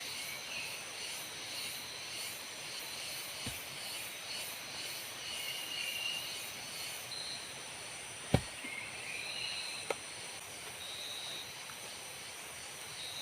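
Forest ambience of insects trilling steadily at a high pitch, with short chirping calls scattered through it. Three sharp knocks break in; the loudest comes about eight seconds in.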